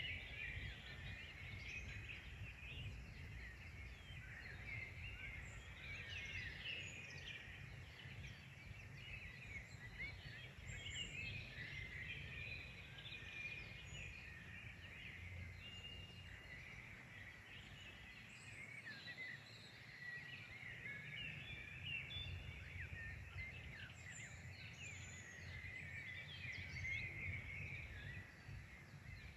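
Many small birds chirping and singing at once: a continuous dense chatter of short, quick overlapping calls, with a low rumble of wind underneath.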